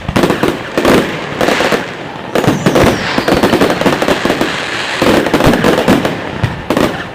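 Fireworks display: a dense, rapid run of shell bangs and crackling, with a faint whistle falling in pitch about two and a half seconds in.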